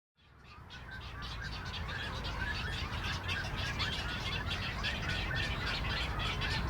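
Waterbird nesting colony of Great Egrets, Double-crested Cormorants and Black-crowned Night-Herons: many birds squawking and chattering at once over a steady low rumble, fading in over the first second.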